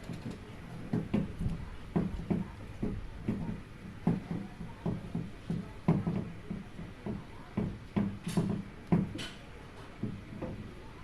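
Irregular knocks and thuds, a few a second, with two brief sharp scrapes near the end: handling and tapping of parts during installation work.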